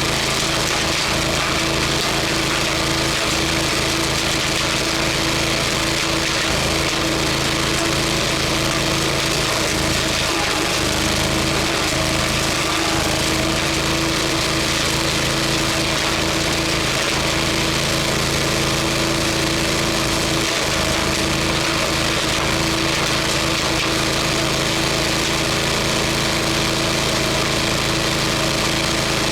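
Wood chipper's engine running steadily at a constant loud level.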